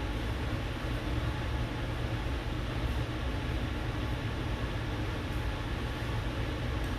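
Steady low rumbling background noise with a faint hiss, unchanging throughout, with no distinct events.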